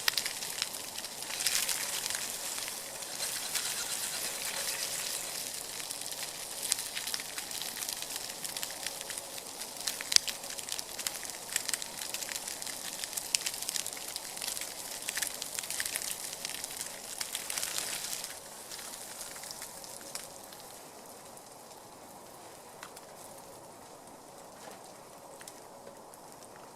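Wood fire crackling and hissing in a folding firepit grill, a dense run of small pops and hiss that drops away sharply about two-thirds of the way through, leaving a faint hiss.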